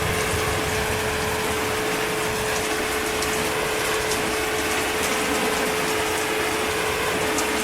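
Steady rain falling, an even hiss with scattered drop ticks, over a faint constant hum.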